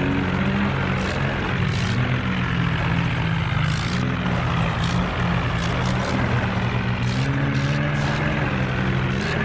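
Tractor diesel engine running hard under heavy pulling load, as in a tractor tug-of-war. Its pitch wavers slightly, dipping about four seconds in and rising a little again near the end.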